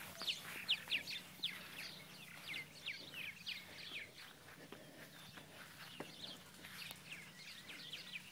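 Birds chirping: many short, high-pitched, falling chirps, several a second, with a few faint clicks among them.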